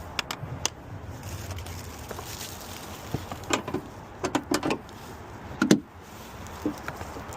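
Scattered plastic clicks and knocks as the air filter housing on a Chevy Spark is refitted and secured so it seals tight, with a louder knock near the end.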